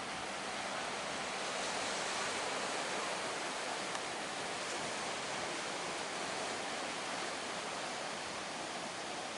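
Steady rushing noise of big sea waves and surf, with no clear engine note.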